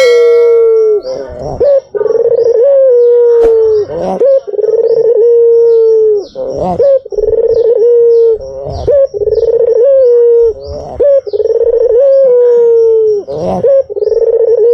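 White (albino) Barbary dove, or puter, cooing: long, steady, low coos repeated about every two seconds, as a lure call. Faint high chirps run quickly above them.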